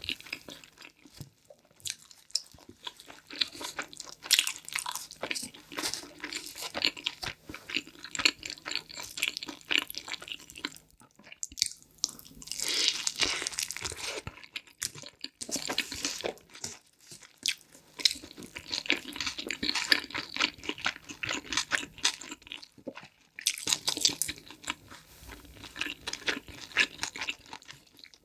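Close-miked chewing of a mouthful of shrimp and hot chicken pizza: a dense run of small clicks and smacks, with brief lulls near the middle and again past two-thirds.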